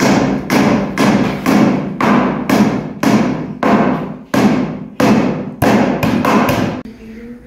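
Hammer striking wood while building a wooden dog kennel: sharp blows about two a second, coming a little faster near the end and stopping about seven seconds in.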